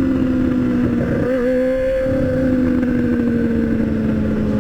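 Motorcycle engine running at a steady cruise, its note easing slightly lower, under wind and road noise.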